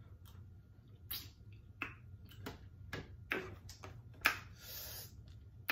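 Close-miked mouth sounds of a person eating: chewing and lip smacking, a string of short wet clicks every half second to a second.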